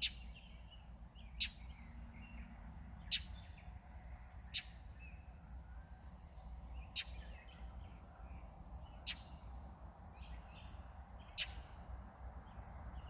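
A bird guarding its nest gives sharp call notes, about seven of them one to two seconds apart, with fainter chirps in between.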